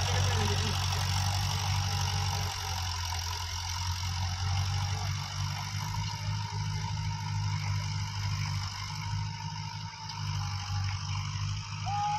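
Digitrac 4x4 tractor's diesel engine running steadily while working a cultivator.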